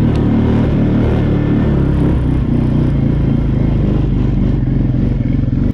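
2014 TGB Blade 425 cc quad bike engine running loudly, its note rising and falling unevenly as the throttle changes while the quad is driven across a field.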